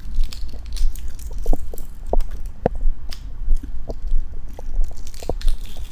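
Close-miked eating of a tea egg: irregular short crunches and clicks, a few each second.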